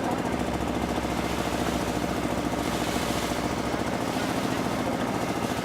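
Komatsu excavator's diesel engine running steadily with a fast, even throb, with a brief hiss about halfway through.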